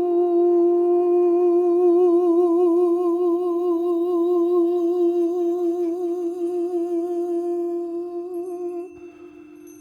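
A single sustained vocal tone, hummed or sung with a slow vibrato over a steady lower drone tone, held for about nine seconds and then fading away near the end.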